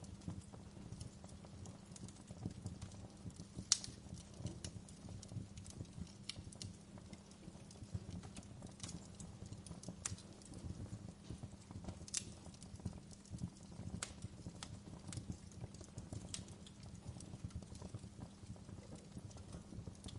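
Wood fire burning in a fireplace: a steady low rumble of flames with irregular crackles and sharp pops, the loudest pops about four seconds in and again about twelve seconds in.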